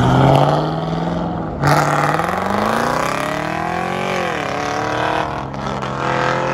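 Car engines revving hard as cars accelerate past one after another. There is a sudden jump in loudness about one and a half seconds in, then the engine note rises for a couple of seconds, dips, and climbs again near the end.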